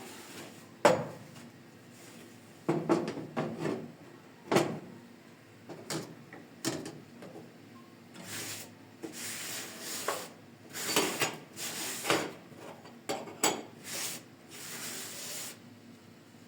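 Irregular knocks and clatters of household objects being handled and set down, with several short scraping or rubbing sounds in between. The loudest knock comes about a second in.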